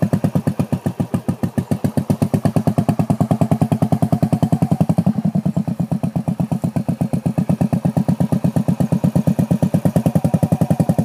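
Small motorcycle engine running at low revs after a restart, with a rapid, even putter. The engine speed rises and falls slightly as a learner feeds throttle and slips the clutch, with a small dip about five seconds in.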